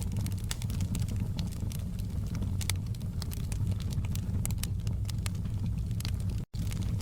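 Wood fire crackling with many irregular sharp pops over a steady low rumble. The sound drops out completely for an instant about six and a half seconds in.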